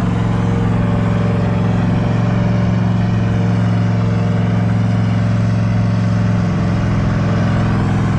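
Car engine running at a steady pitch, with a slight shift in tone about six and a half seconds in.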